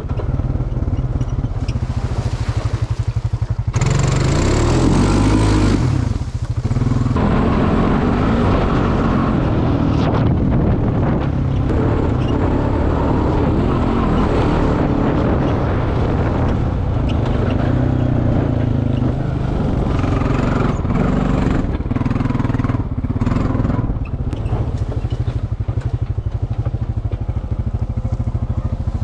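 ATV engine running and revving as the four-wheeler drives through a mud hole, its pitch rising and falling with the throttle. A louder rushing noise comes about four seconds in and lasts roughly two seconds.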